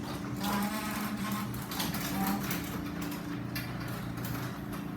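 LiftMaster garage door opener running as it lowers the door, its motor giving a steady hum.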